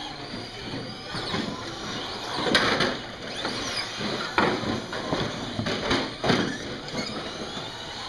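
Radio-controlled trucks racing: motor whine rising and falling as they speed up and slow, over a steady noise of the running trucks, with several louder bursts from about two and a half seconds in.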